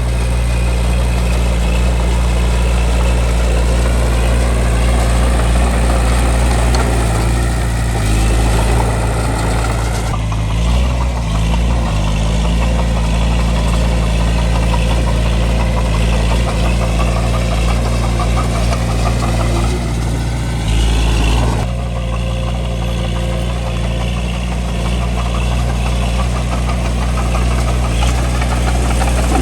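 Bulldozer's diesel engine running steadily while pushing dirt. Its engine note shifts in pitch a few times, around a third of the way in and again about two-thirds in.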